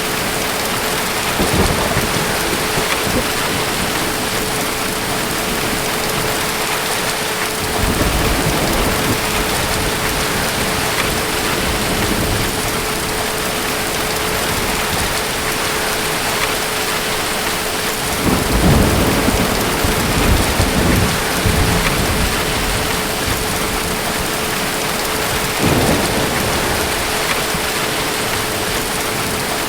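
Steady rain pouring, with distant thunder rumbling four times. The longest and loudest roll comes about two-thirds of the way through, with shorter rumbles near the start, at about a quarter of the way, and near the end.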